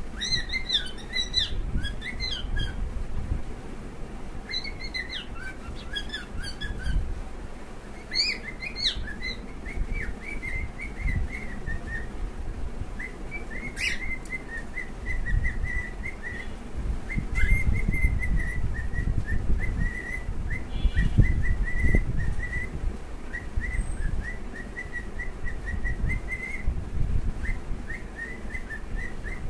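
Pet cockatiels chirping and whistling: short whistled chirps, sliding at first and later a long run of quick, evenly pitched chirps. A low rumbling noise runs underneath.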